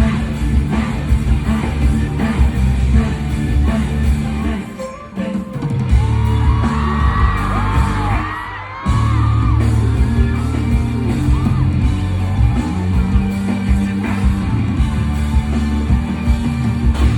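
Loud live K-pop music over arena speakers, with heavy bass and a steady beat, and a crowd of fans screaming and whooping over it. The beat cuts out briefly about five seconds in and again near nine seconds, and the screaming swells in between.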